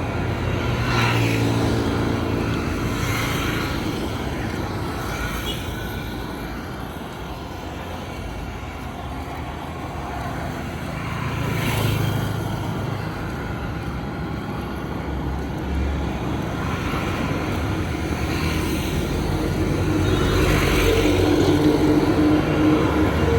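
Street traffic: motor vehicles passing by one after another over a steady road noise, with engine hum swelling as each goes past and loudest near the end.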